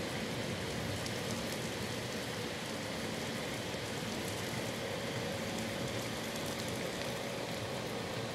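Rain falling steadily in a thunderstorm: an even hiss with scattered faint drop ticks.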